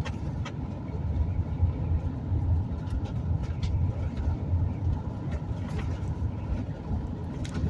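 Steady low drone of road and engine noise inside a moving vehicle on the highway, with a few scattered light clicks and rattles.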